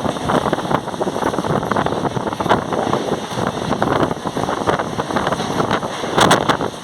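Mumbai suburban local train running: a steady rumble and rattle of the wheels on the track, with wind noise on the microphone.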